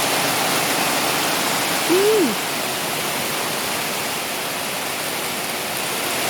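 Heavy monsoon rain pouring down in a steady hiss. About two seconds in comes one short vocal sound that rises and then falls.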